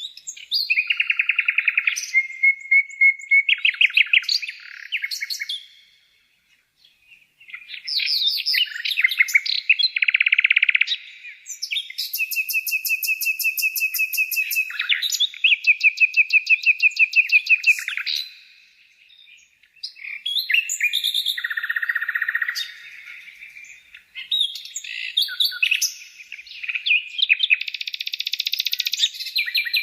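Songbird song in varied phrases of rapid trills and quick repeated whistled notes, broken by a couple of short pauses.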